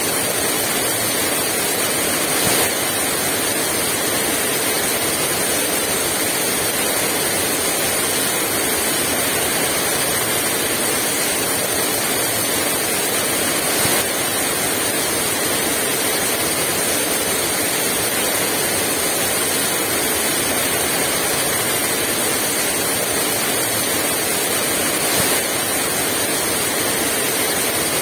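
Heavy rain pouring steadily as a dense, even hiss, with a few brief louder moments.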